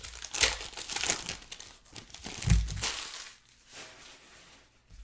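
Plastic trading-card pack wrappers crinkling as they are handled, with a dull thump about two and a half seconds in.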